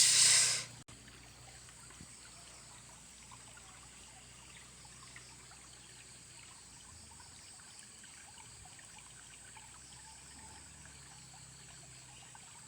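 Faint, steady trickle of flowing river water, with a thin steady high tone over it. A brief loud rustle at the very start cuts off abruptly.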